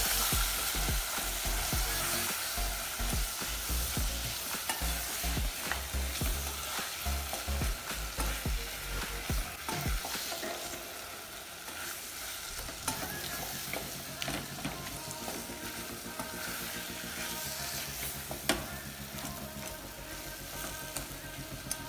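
Sliced onions and ground spices frying with a steady sizzle in a nonstick pan, stirred and scraped with a wooden spatula that clicks and knocks against the pan, with one sharp knock near the end.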